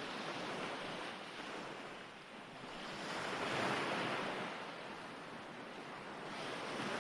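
Recorded ocean waves washing in as a steady surf, one wave swelling up about three seconds in and ebbing away again.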